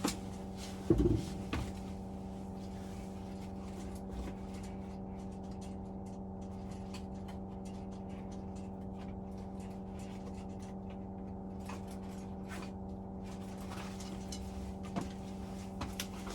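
Steady low mechanical hum with a few light clicks and knocks from tools and boiler parts being handled, most about a second in and near the end.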